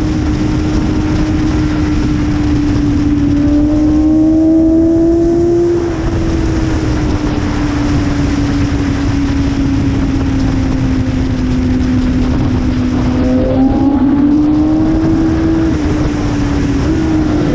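BMW S1000RR's inline-four engine running at high revs under a dense rush of wind noise. The engine note climbs slowly, then sinks over several seconds, then dips and climbs again, with a sudden upward jump in pitch near the end.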